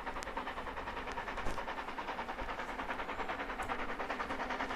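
Steady background noise with a fast, even flutter, and a faint tick about one and a half seconds in.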